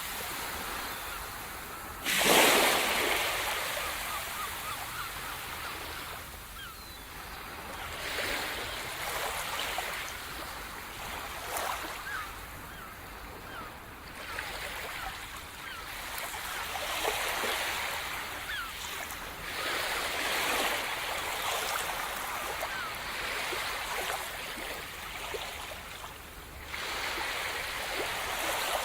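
Sea surf: waves breaking and washing up the shore, with one loud break about two seconds in and softer surges every few seconds after.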